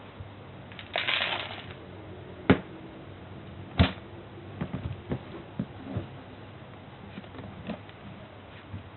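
Scattered clicks and knocks: a brief rustle about a second in, two sharp knocks, then a string of lighter ticks.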